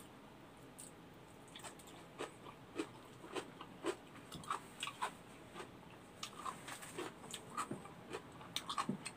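A person chewing kimchi, eaten by hand, with short wet mouth clicks coming irregularly a few times a second.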